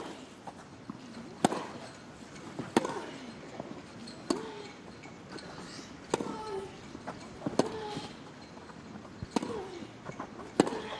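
A tennis ball struck back and forth in a rally, a sharp racket hit every second and a half or so. Most hits come with a short vocal grunt from the player.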